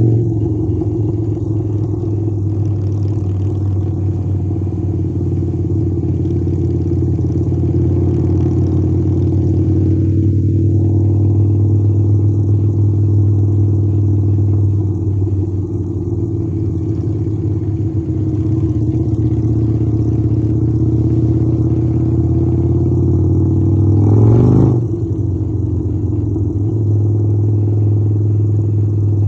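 Harley-Davidson V-twin motorcycle engine running steadily under way. About 24 seconds in it revs up briefly, then falls back.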